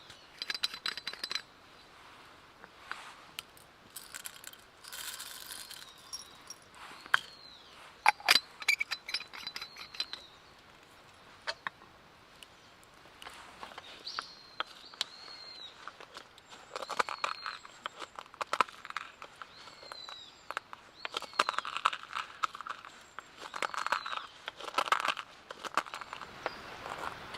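Irregular clicks, clinks and rustling of small objects being handled, with several short high chirps scattered through, the sounds of camp gear being worked.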